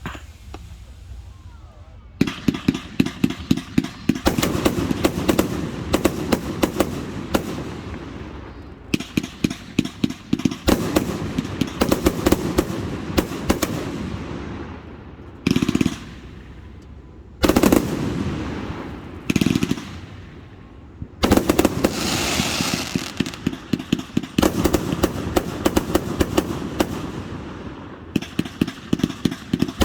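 Aerial fireworks display: rapid volleys of sharp bangs and crackle in bursts lasting a second to several seconds each, with short pauses between them.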